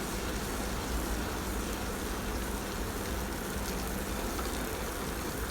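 Elgi Ultra tabletop wet grinder running steadily, its drum turning against the grinding stones as it grinds soaked urad dal: an even hiss over a low hum.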